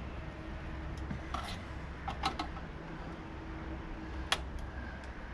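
A few light clicks and taps, the loudest about four seconds in, over a low steady rumble.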